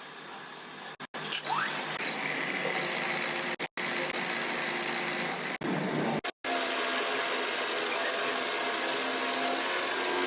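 Workshop machinery running with a steady mechanical whine, in several short takes that cut off abruptly about a second in, near the middle and again a little later.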